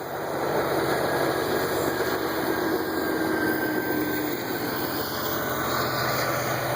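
Parrot AR Drone 2.0 quadcopter's four electric motors and propellers whirring steadily in flight, with a low hum under it and a held tone that stops about four seconds in.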